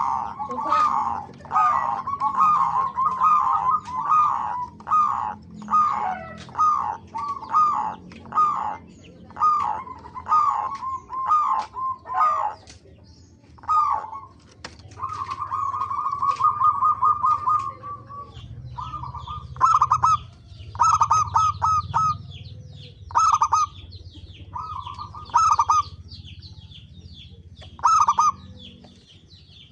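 Zebra doves (perkutut) cooing: a string of short rattling coos at one pitch, about one or two a second at first, with a longer drawn-out trill about halfway through, then spaced single coos. Fainter, higher chirping from other small birds joins in the second half.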